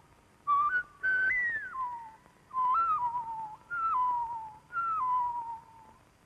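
A woman whistling a run of cartoon-creature calls: five short phrases, each jumping up in pitch and then stepping or sliding back down.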